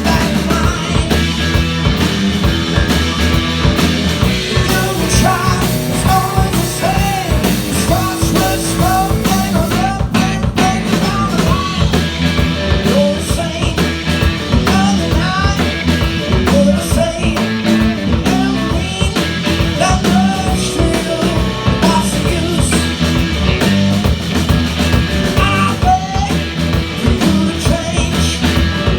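A blues-rock band playing live and amplified, with electric guitar, a steady beat and singing.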